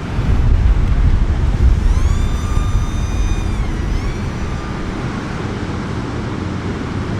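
Wind buffeting the microphone, with the high whine of the TBS Chupito's small electric motor and propeller. The whine rises about two seconds in, holds steady, dips briefly and comes back near four seconds, then fades under the wind.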